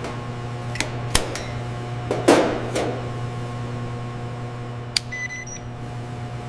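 A steady machine hum with a few sharp clicks about a second in, a short hiss a little past two seconds, and faint high-pitched beeps around five seconds in.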